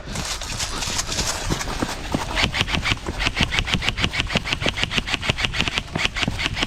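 Paintball marker firing in a long rapid stream at about ten shots a second, getting louder about two seconds in.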